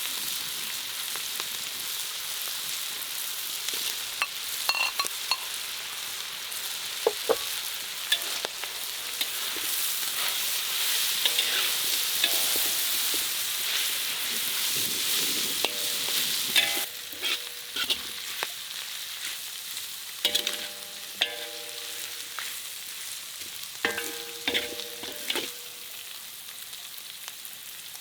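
Food frying and sizzling in a pan, with scattered clicks of stirring. Partway through the sizzle drops. Several short groups of pitched notes follow in the second half.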